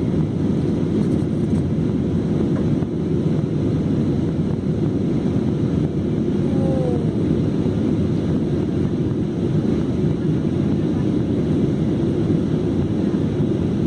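Jet airliner cabin noise in flight: a steady, even rumble of engines and airflow heard from inside the cabin.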